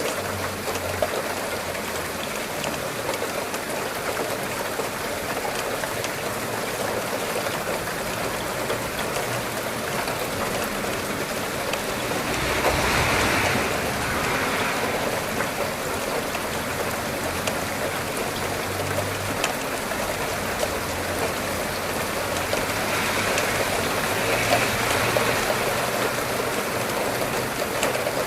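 Steady rain falling, a continuous hiss dotted with many small drop ticks. It swells louder briefly about halfway through and again near the end.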